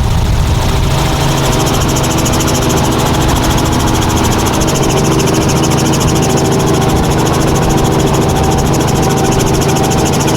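Helicopter running steadily, its engine and rotor giving a fast, even pulse.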